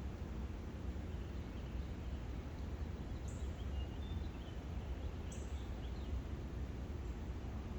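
Faint, scattered bird chirps over a steady low rumble, with a couple of short high notes about three and five seconds in.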